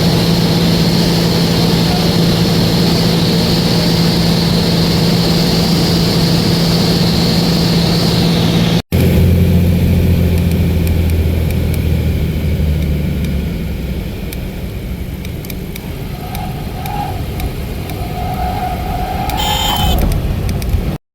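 Cessna plane's engine and propeller droning steadily at a constant pitch. After a cut about nine seconds in, a lower vehicle hum takes over and fades over a few seconds, with a few short pitched sounds near the end.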